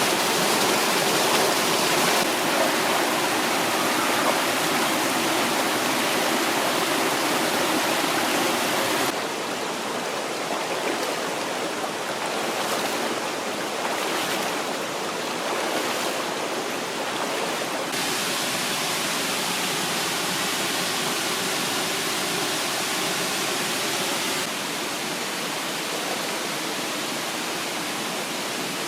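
Mountain stream water rushing steadily, with no voices. The sound shifts suddenly in loudness and tone three times, about 9, 18 and 24 seconds in.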